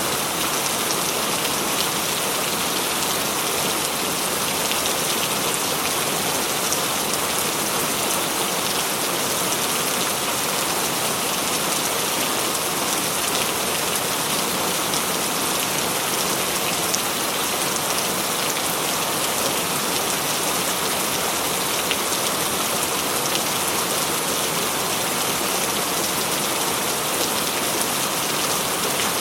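Heavy rain falling steadily on a corrugated metal roof, a dense even patter of drops with no thunder.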